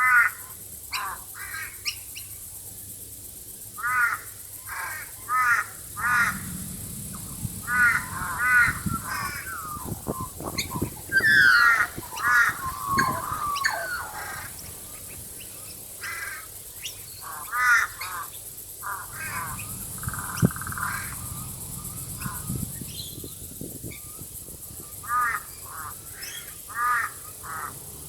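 Birds calling: a short, harsh call repeated in runs of two to four. A warbling call with falling glides comes in about halfway through. A steady high-pitched hiss runs underneath.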